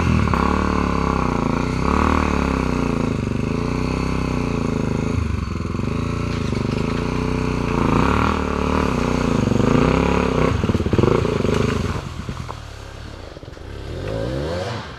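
Honda XR250 Tornado's single-cylinder four-stroke engine revving up and down over and over as the trail bike climbs a loose, rocky hill. The engine falls away about twelve seconds in and picks up again briefly near the end.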